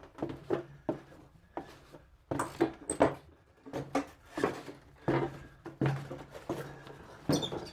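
Footsteps of a person walking: a string of short, irregular knocks, roughly one or two a second, with a faint low hum under some of them.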